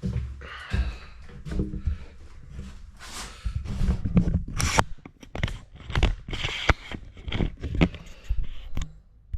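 Irregular clicks, knocks and short scrapes of tools and engine parts being handled during an engine strip-down.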